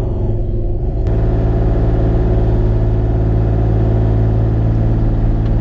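Bobcat E35 mini excavator's diesel engine running steadily with a low hum. About a second in there is a sharp click, and the engine note grows slightly louder and fuller.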